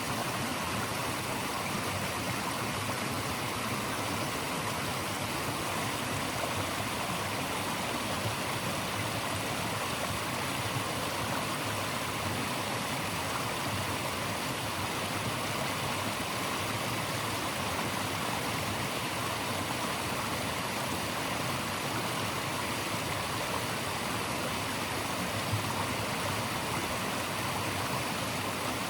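Steady rushing of a stream's flowing water, an even, unchanging hiss.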